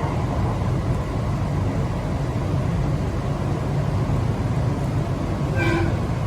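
JR 701 series 5000-subseries electric train running, a steady low rumble of wheels and running gear. A brief high-pitched squeal rings out near the end.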